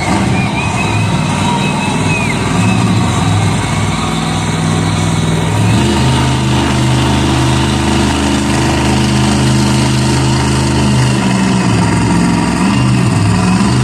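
Monster truck engine running loudly, uneven at first, then holding a steady low pitch for about five seconds in the middle before it drops back.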